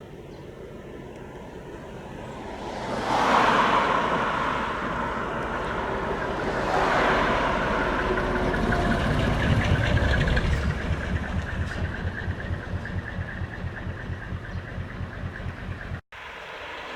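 Diesel truck engines with split exhaust manifolds (mani-wari) running as the trucks pull away, the sound swelling loudly twice and then settling into a pulsing, uneven exhaust beat. It cuts off abruptly near the end.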